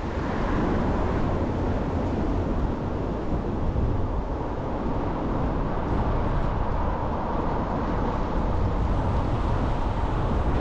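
Steady rumbling noise of a car on the move, road and engine noise mixed with wind buffeting the microphone.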